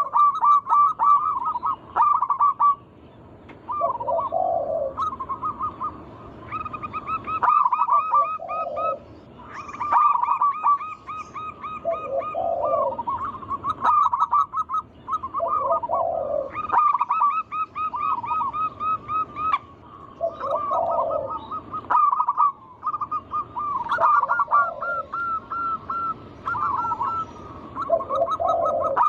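Zebra doves (perkutut) cooing: rapid runs of short rolling coo notes, each phrase closed by a deeper note about every four seconds, with calls overlapping almost without pause.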